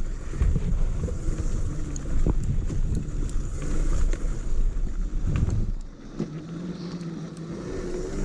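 Electric dirt bike riding over a bumpy trail: wind rushing over the microphone and knocks as the bike jolts over the ground. About six seconds in it quietens, leaving a steady hum from the electric motor.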